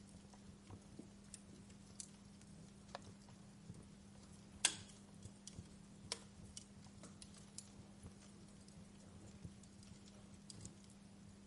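Fire crackling: irregular small pops and snaps, with one louder pop about halfway through. A faint steady low hum runs underneath.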